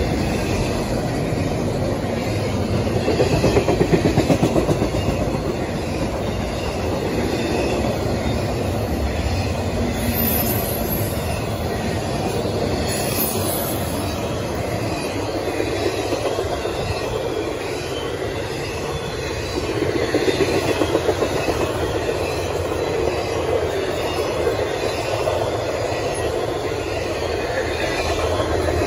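Intermodal freight train cars rolling past: steady steel-wheel-on-rail noise with wheels clacking on the rails, swelling louder twice, with faint brief high squeals about ten to thirteen seconds in.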